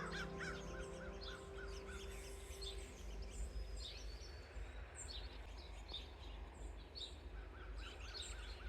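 Wild birds calling: a run of short repeated calls near the start and again near the end, with scattered high chirps throughout, over a faint low rumble.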